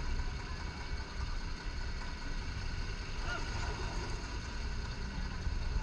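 Vehicle engine running with a steady low rumble, as a vehicle stuck in water is driven out.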